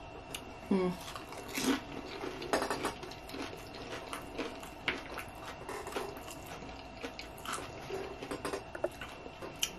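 A person chewing and crunching loaded tortilla-chip nachos with the mouth closed, with irregular crisp crunches, the clearest about one, two and two and a half seconds in.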